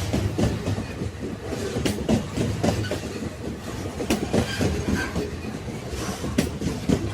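Railway carriages running along the track: a steady low rumble with irregular sharp knocks as the wheels pass over rail joints.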